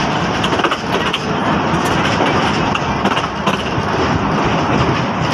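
Metre-gauge passenger train rolling along worn, badly kept track: a steady rumble of wheels on rail with irregular clacks and knocks from the coach throughout.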